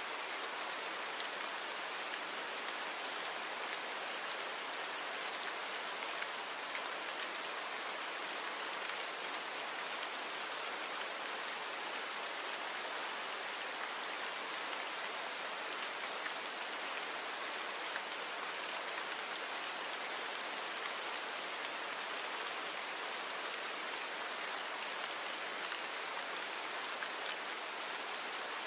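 Steady rain falling on a surface, an even hiss of many drops with faint scattered individual drop ticks and no deep rumble.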